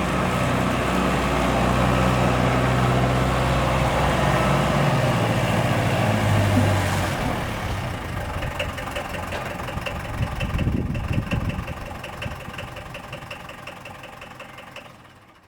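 Esslingen DZ 10 tow tractor's Mercedes OM 636 four-cylinder diesel engine running, its pitch rising slightly about five seconds in, then growing steadily quieter over the second half until it fades out.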